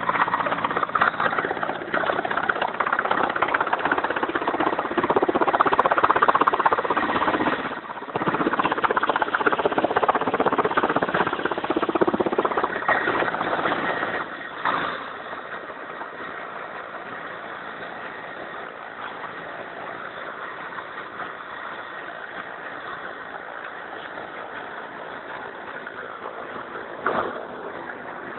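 Mi-17V5 helicopter's turbine engines and rotor running with a steady noise. The noise drops sharply about halfway through and stays lower and steadier after that, with one brief louder swell near the end.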